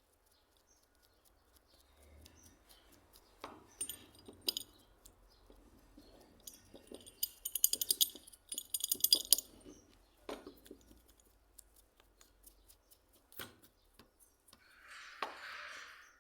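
Metal parts of a hand plane being handled and fitted: scattered clicks and clinks, two quick rattling runs of ticks past the middle, and a short hiss near the end.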